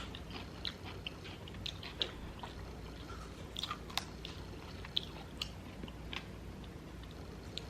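A person chewing and biting food close to the microphone: irregular crisp clicks and wet mouth sounds.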